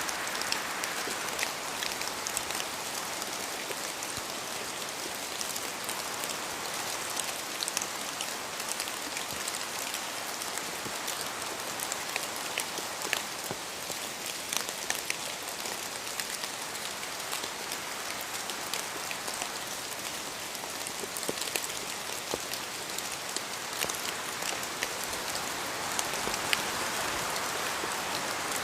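Steady rain falling and pattering on a surface, with many small separate drop impacts over an even hiss.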